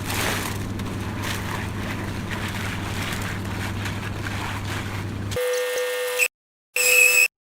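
Concrete mixer's engine running with a steady low hum. It cuts off abruptly about five seconds in, and electronic beeps follow, sounding about once a second with dead silence between them.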